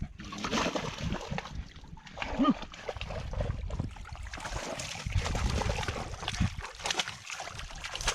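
Splashing and sloshing in muddy puddle water, with a brief squeak about two and a half seconds in.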